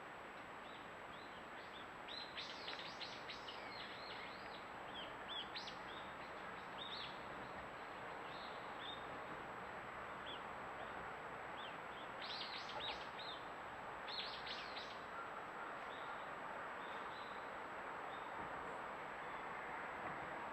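A small bird calling: scattered single high chirps, with two quick chattering runs of sharp downslurred notes, about two seconds in and again about twelve seconds in. A steady hiss lies under it throughout.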